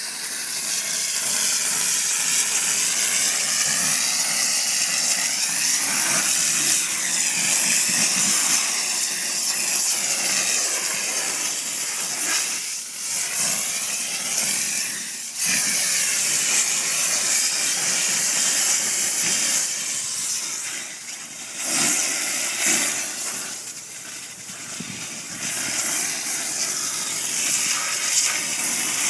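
Pressurized car-wash sprayer hissing steadily as it jets a fine mist of water, with short breaks where the spray eases off, most noticeably about halfway through and again near the end.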